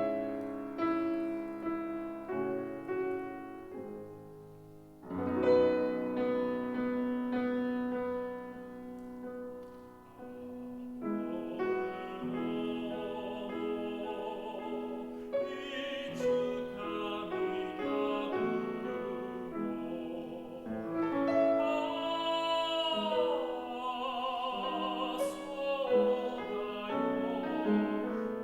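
Classical piano playing alone, then a tenor voice enters about eleven seconds in, singing with vibrato over the piano accompaniment.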